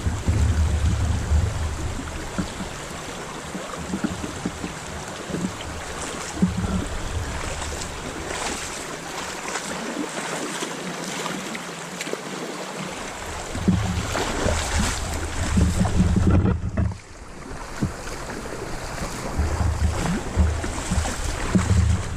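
Wind buffeting the microphone in gusts over a steady rush of running water, with scattered splashing crackles. The rumble drops away for a few seconds in the middle, and the whole sound dips briefly about two-thirds of the way through.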